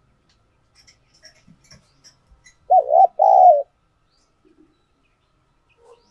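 Spotted dove cooing: one loud, low two-part coo about three seconds in, preceded by faint short chirps.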